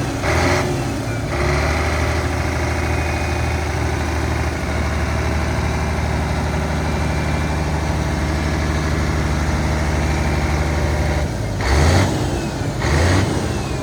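Scania 114 380 truck's 11-litre six-cylinder PDE diesel idling steadily, revved briefly about half a second in and twice near the end.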